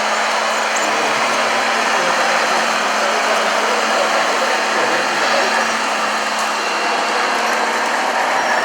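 Steady whirring of radio-controlled model construction machines' electric motors and gearing, with a constant hum underneath.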